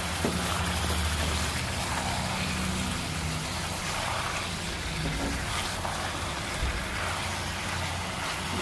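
Chicken pieces and sliced onions sizzling steadily in hot oil in a pan, over a low steady hum.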